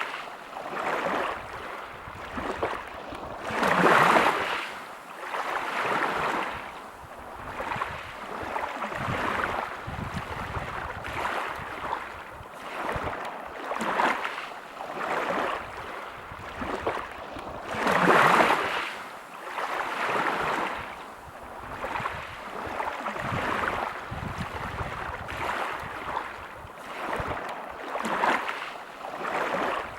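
Sea waves breaking on a pebble beach, washing in and out in surges every couple of seconds. The biggest surges come about four seconds in and again a little past halfway.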